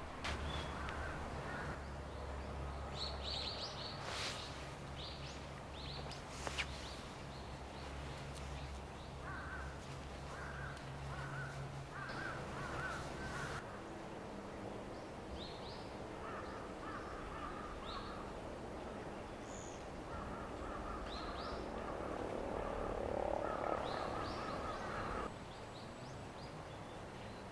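Crows cawing in runs of several calls, with short, high bird chirps scattered between. A low steady hum stops about halfway through.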